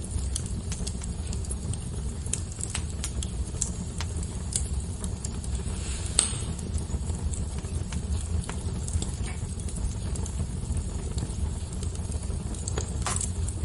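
Fire crackling: scattered sharp pops and snaps over a steady low rumble, with a louder pop about six seconds in and another near the end.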